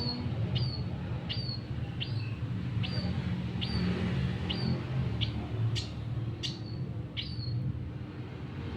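A bird giving short, sharp chirps over and over, about one every two-thirds of a second, each call dropping quickly in pitch, over a steady low hum.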